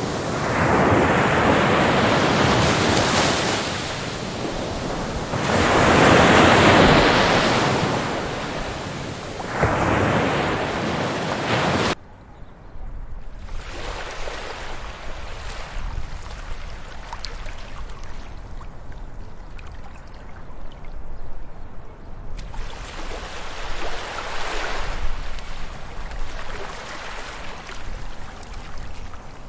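Ocean waves breaking on a beach, with three big surging washes one after another. About twelve seconds in, the sound cuts off abruptly to a quieter, gentler surf with smaller washes.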